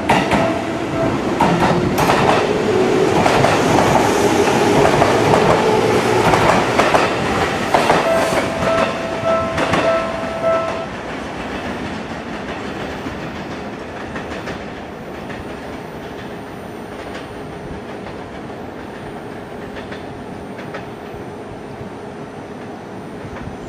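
Seibu 4000-series electric train running into the platform, its wheels clacking over rail joints with a changing whine from the running gear. A steady tone sounds near the start and again after about eight seconds. After about eleven seconds this gives way to a quieter, steady running sound from a train farther off.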